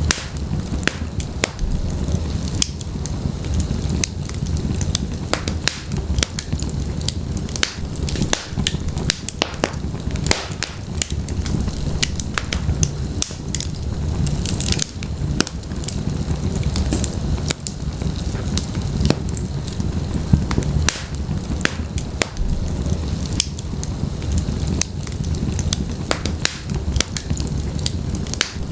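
Wood fire burning in a fireplace: a constant low rumble of flames, with frequent sharp crackles and pops from the logs at irregular intervals.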